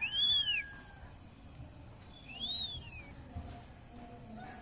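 Indian ringneck parrot giving two short arched whistling calls: a loud one right at the start and a fainter, higher-pitched one a little past the middle.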